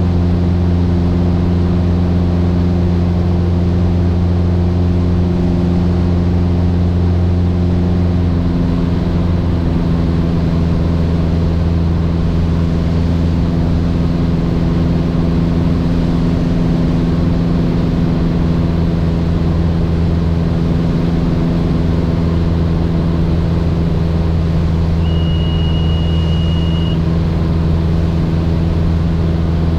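Mooney M20J's four-cylinder Lycoming engine and propeller droning steadily in flight, with a slight shift in pitch about nine seconds in. A brief high beep sounds near the end.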